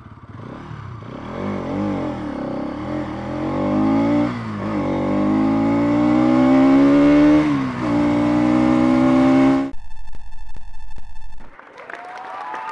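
Bajaj Pulsar NS200's 199.5 cc single-cylinder engine accelerating hard through the gears, its pitch climbing, dipping briefly at two upshifts about four and eight seconds in. The engine sound cuts off suddenly near the end, followed by a short steady electronic tone with regular ticks.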